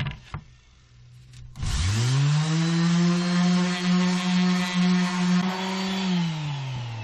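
Electric sander switched on about one and a half seconds in, spinning up to a steady hum and then winding down near the end, sanding the wood at 320 grit.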